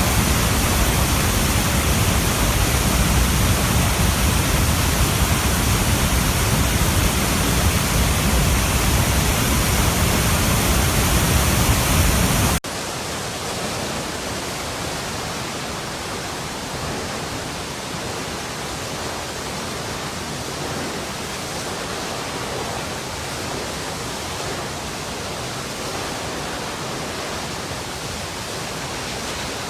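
Steady rush of running water, full and even with strong bass; about twelve and a half seconds in it cuts abruptly to a quieter, thinner water sound with much less low end.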